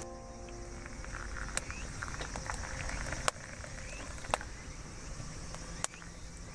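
Wood bonfire crackling, with a few sharp pops over a low steady background and faint short rising chirps.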